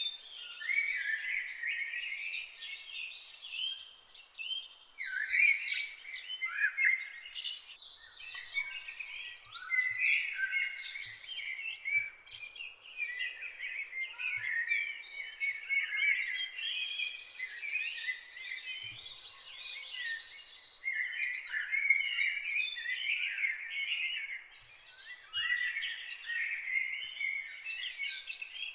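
Dawn chorus of many songbirds: dense, overlapping chirps and short song phrases with no pause between them.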